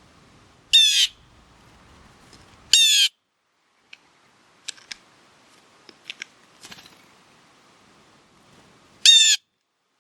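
A bird giving three loud, harsh calls, each about a third of a second long. The first two come two seconds apart and the last near the end, with a few faint short chips in between.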